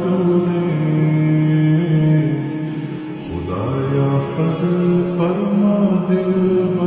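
Devotional vocal music: a voice singing long, drawn-out notes of a slow melody, sliding up into a new note about three and a half seconds in.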